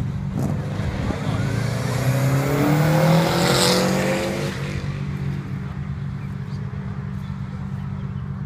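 Subaru wagon's flat-four engine revving hard as the car accelerates past, pitch climbing and loudest about three seconds in, then fading as it pulls away.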